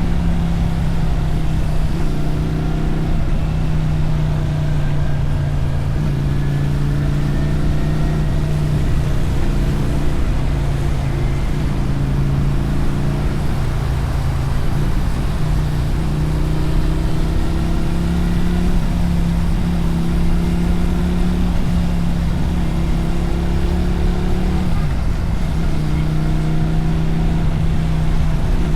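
Motorcycle engine and exhaust heard while riding, mostly holding a steady pitch, with a few gentle rises and dips as the throttle changes, over a constant rumble of wind and road.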